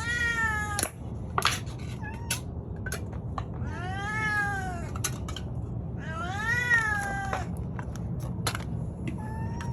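A hungry stray cat meowing loudly at the person feeding her: three long drawn-out meows that rise and fall in pitch, then a short one near the end. Sharp little clicks and taps sound between the calls.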